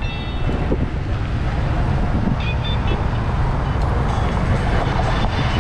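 Steady low rumble of wind buffeting a GoPro's microphone while cycling at about 10–12 mph, with road traffic noise mixed in.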